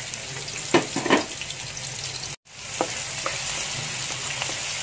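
Chopped garlic and bird's eye chilies sizzling in hot oil in a wok as they are tipped in, with a couple of sharp clacks about a second in. The sound drops out briefly near the middle, then the steady sizzling goes on.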